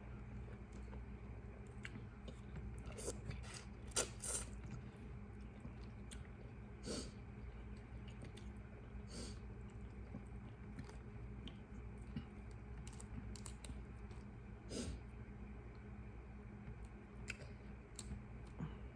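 Eating a seafood boil: scattered cracks and clicks of shells being broken and handled, the sharpest about four seconds in, with chewing, over a steady low hum.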